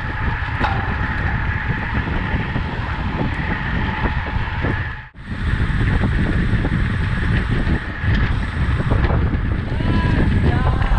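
Wind buffeting the microphone of a camera riding along on a bicycle, with the rush of the road beneath. The noise drops out for a moment about five seconds in, then resumes.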